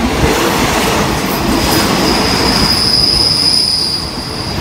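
Passenger coaches rolling slowly past as the train brakes to a stop, with a rumble of wheels on the rails. A steady, high squeal from the wheels sets in about a second in and grows until near the end, joined by a fainter, higher squeal from about halfway.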